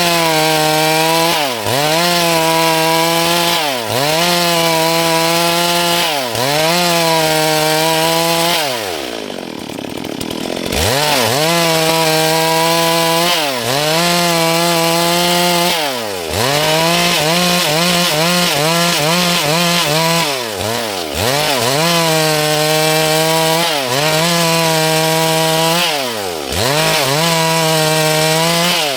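Stihl MS 382 two-stroke chainsaw cutting through dry wood at full throttle, the revs dropping and climbing back every two or three seconds as the throttle is eased and reapplied. About nine seconds in it falls to a lower pitch for a couple of seconds before revving up again.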